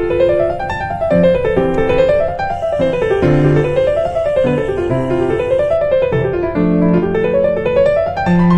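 Background piano music: rising and falling arpeggios repeating about every second and a half over held low bass notes.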